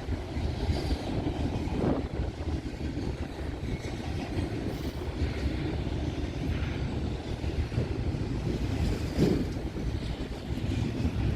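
Freight train cars rolling past: a steady rumble of wheels on rail, with two clacks as wheels cross a rail joint, about two seconds in and again near the end.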